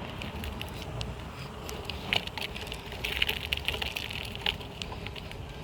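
BMX bike rolling over pavement: a low rumble of tyre noise with many irregular light rattles and clicks, thickest in the middle.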